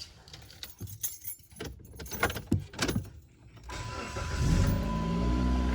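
Car keys jangling and a few handling clicks, then about four seconds in a 2008 Dodge Avenger's engine starts and runs with a low rumble. A steady high tone sounds over it.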